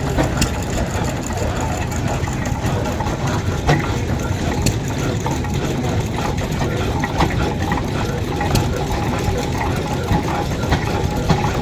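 Vintage engine running steadily, with scattered sharp clicks and knocks over it.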